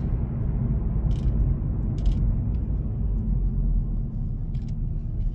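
2018 Hyundai Elantra's 2.0-litre four-cylinder engine running smoothly, a steady low purr heard from inside the cabin while driving, with a few faint clicks.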